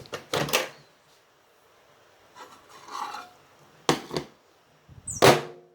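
Plate and microwave being handled: a few knocks and clunks with rubbing and scraping between them, the loudest clunk near the end with a short ring after it.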